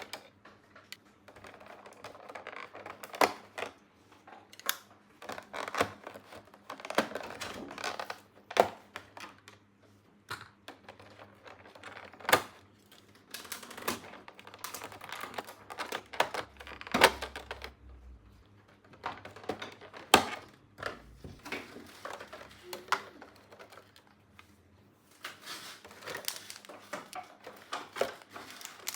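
Small plastic toy pieces being handled: irregular sharp clicks and taps between stretches of soft rustling.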